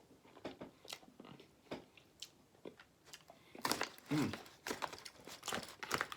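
A person chewing and biting food close to the microphone: irregular short clicks and smacks of eating, thickest in the second half, with a short low hum a little past the middle.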